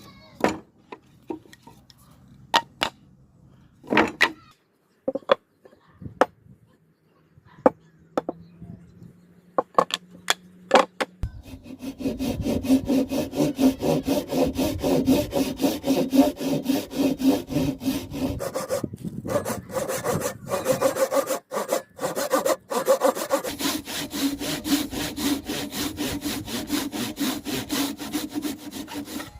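Scattered sharp wooden knocks and clicks, then from about eleven seconds in a saw cutting through wood without pause, in rapid even strokes.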